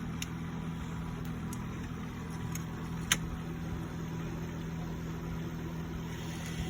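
Steady low electronic drone from a Dell Inspiron 3521 laptop's speaker on power-up, a fault noise that comes with the laptop giving no display. A single sharp click about three seconds in.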